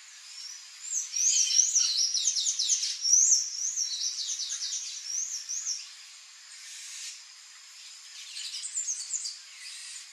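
A songbird singing a fast run of short, high, up-and-down squeaky notes for about five seconds, then a shorter bout near the end.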